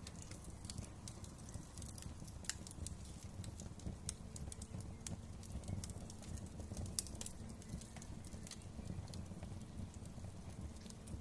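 Fireplace fire crackling: irregular sharp pops and snaps, scattered at uneven intervals over a steady low rumble of burning.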